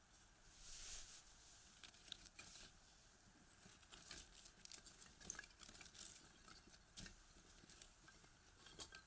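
Firewood crackling in a small box stove: scattered sharp pops and snaps, irregular and quiet, over a faint hiss of the flames.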